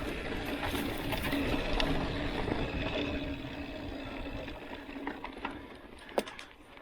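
Mountain bike being ridden on a dirt road: tyres rolling and the chain and freewheel rattling and clicking, fading toward the end, with one sharp click about six seconds in.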